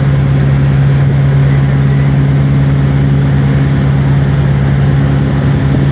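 Motorboat engine running steadily at a constant pitch, a loud even drone with a fast low throb underneath.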